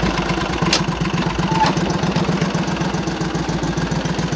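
Small engine of a homemade garden tractor running steadily at low speed with an even pulsing beat. There is a single sharp click a little under a second in.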